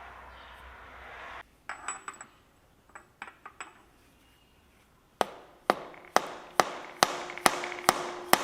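Hammer strikes driving a new front crankshaft oil seal into a Kohler Command V-twin engine. A few light clicks come first, then about five seconds in come regular sharp blows about twice a second, each with a short ring.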